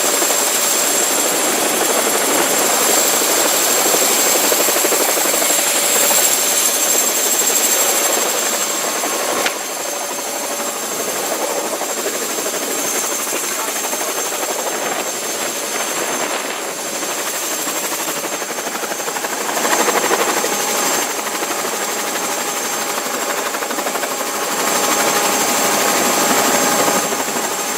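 Helicopter turbine engine and rotor running steadily: a dense rushing noise with a steady high whine over it, dipping slightly about ten seconds in.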